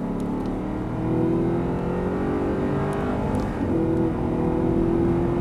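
Audi R8 engine accelerating hard at full throttle, heard from inside the cabin. Its pitch climbs steadily, drops briefly about three and a half seconds in at a gear change, then climbs again.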